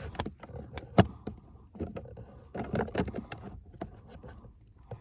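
Irregular plastic clicks, knocks and rustling as a cabin air filter is pushed and worked against the groove of its housing without seating, with one sharp knock about a second in.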